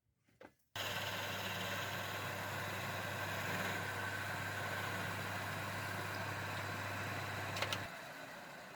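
An electric power tool's motor switched on with a sudden start, running steadily with a low hum, then switched off near the end and winding down.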